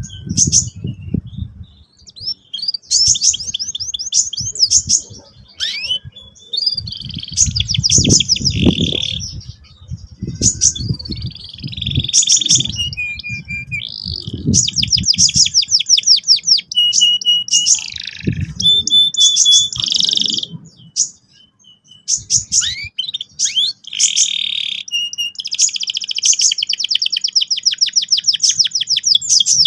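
Canary singing almost without pause: fast trilled rolls of rapidly repeated notes, broken by buzzier phrases, ending in a long, even roll. Bursts of low rumble sound underneath at times.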